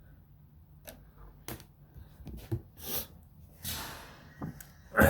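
A series of irregular clicks and knocks from handling tools or parts, with a brief scraping rustle about two-thirds of the way through and a sharper knock near the end.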